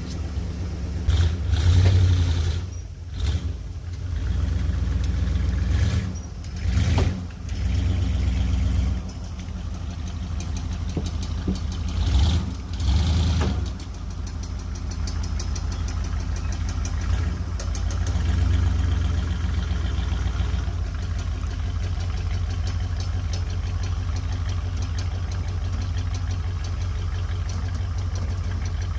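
An engine running steadily at low revs, with three short, louder swells of rushing noise over it in the first half.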